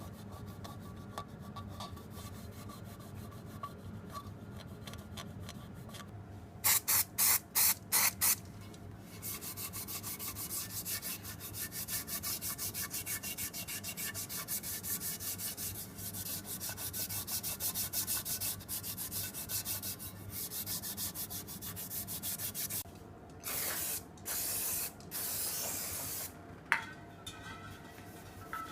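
Rapid back-and-forth rubbing strokes, like sanding or scrubbing, running for about fifteen seconds. A few short hissing bursts come just before and again after it, and there is a sharp click near the end.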